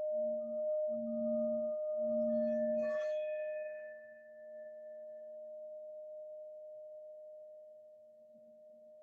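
Singing bowl ringing with a steady tone, with a lower pulsing hum under it as the bowl is worked during the first three seconds. About three seconds in, a light strike brings out higher overtones, and the tone then rings on and slowly fades.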